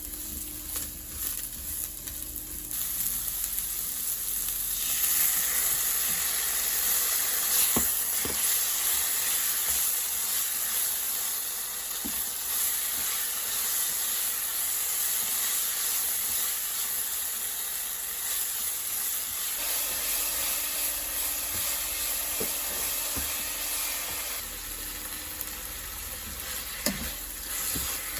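Food sizzling in a hot pan, a steady hiss with a few light clicks. It grows louder about five seconds in and eases off near the end.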